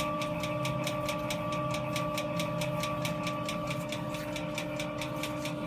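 A small machine running steadily: a constant hum with a regular clicking of about five beats a second.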